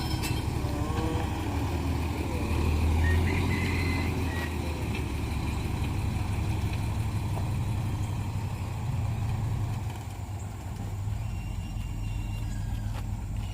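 A long dump truck's engine running steadily while the truck tips its load of sand, a low rumble that eases slightly about ten seconds in.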